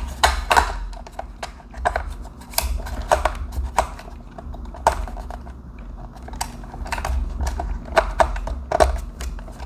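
Irregular plastic clicks and knocks from handling a toy excavator's battery compartment, as its battery pack is pushed in and the cover fitted, over a low handling rumble.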